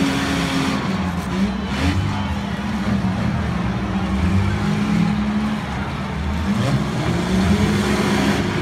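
Engines of several demolition derby cars running and revving together, heard from the stands, their pitch rising and falling.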